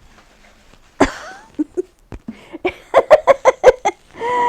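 A woman laughing in a quick run of short bursts, about eight in under a second, after a single knock about a second in; a drawn-out falling vocal sound begins near the end.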